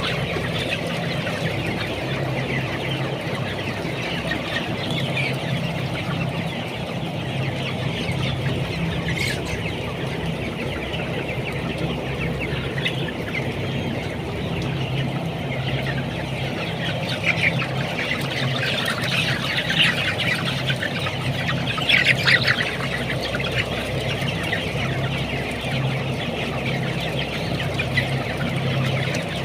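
A large flock of broiler chickens about three weeks old chirping and clucking together in a continuous chorus, with a few louder calls past the middle, over a steady low hum.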